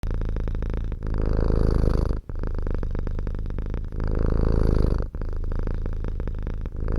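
A domestic cat purring steadily, a rapid low pulsing that breaks briefly about every second and a half as the cat switches between breathing in and breathing out.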